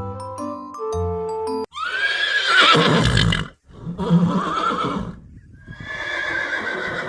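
A horse neighing three times, each whinny a long call that glides in pitch, after a bar of light glockenspiel-like children's music.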